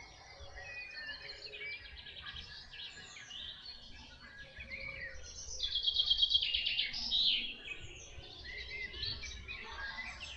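Several songbirds singing at once, their phrases overlapping, with one loud, rapidly repeated phrase from about five and a half to seven and a half seconds in. A faint low rumble runs underneath.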